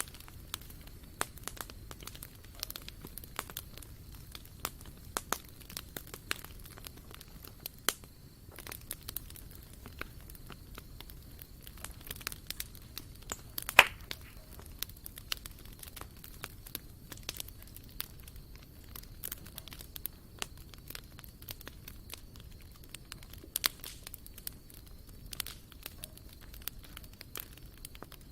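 Wood campfire crackling, with irregular sharp pops and one much louder pop about 14 seconds in.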